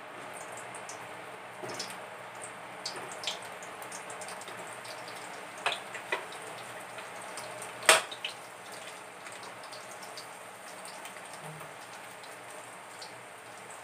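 Carrot pieces sizzling and crackling in hot oil in a wok. A few sharp clinks of a metal spatula against the wok, the loudest about eight seconds in.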